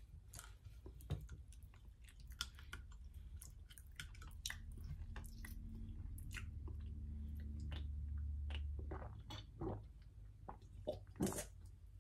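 Quiet close-up mouth sounds of a person chewing, with scattered small clicks and smacks. A low steady hum swells in the middle and fades out.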